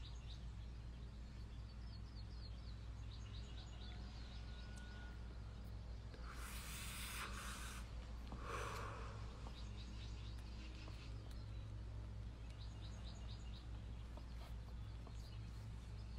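Faint bird chirping in the background, short runs of quick high chirps coming and going, over a steady low hum. Two short hisses come a little past the middle.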